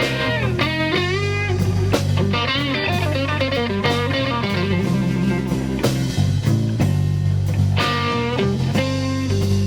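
Electric guitar playing a slow blues lead with bent notes, over bass guitar and a drum kit.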